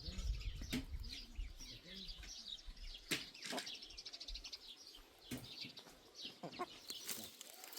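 Small birds chirping and twittering, with a sharp knock every second or two.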